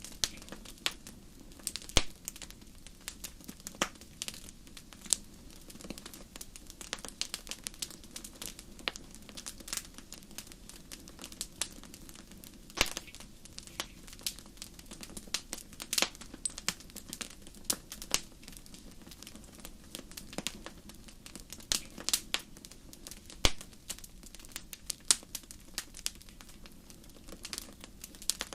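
Wood fire burning in a fireplace, with sharp, irregular crackles and pops over a low, steady rumble of flame.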